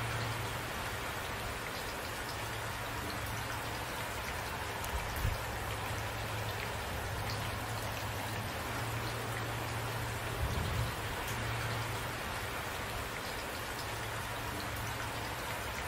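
Steady rain falling, with drops pattering on a surface and a few brief low thuds, about five seconds in and near eleven seconds.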